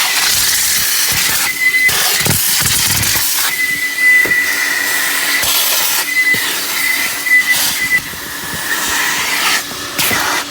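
JE Adams Turbo Vac car wash vacuum running, a loud rush of suction with an extremely horrible high whistle that cuts in and out several times, the rush briefly dropping a few times as the hose nozzle moves.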